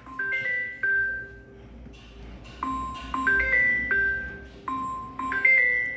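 A simple electronic chime tune: single clear, bell-like notes played one after another at a steady pace.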